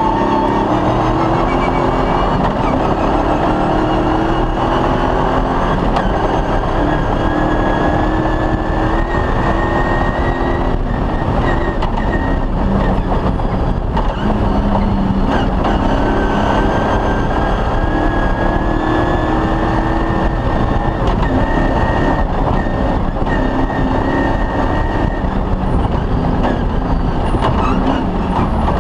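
Off-road rally vehicle driven hard on a special stage, its engine running loud and steady with the revs stepping up and down, and a thin high whine that climbs slowly twice.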